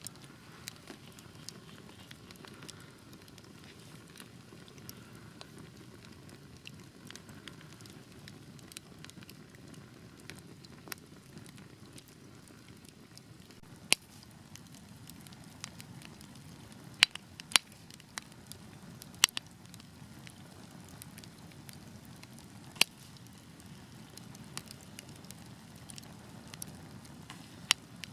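Fire crackling in a fireplace: a steady soft rush of flame under frequent small crackles, with a handful of louder sharp pops in the second half.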